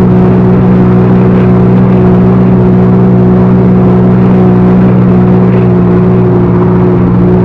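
Backhoe loader's diesel engine running loud and steady, its hum holding one unchanging pitch.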